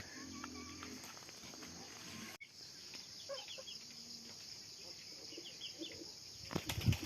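Steady high chirring of insects with a few faint, short bird calls. A cluster of dull knocks comes near the end.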